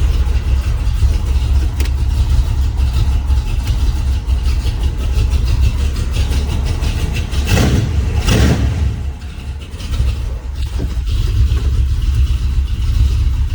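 1979 Ford F-150 engine with a Holley four-barrel double-pumper carburettor and headers, running cold after a cold start: a steady low rumble, with two quick revs a little past halfway.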